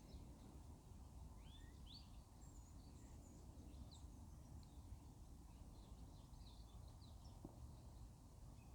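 Near silence: faint outdoor background with a low steady rumble and scattered brief bird chirps in the distance.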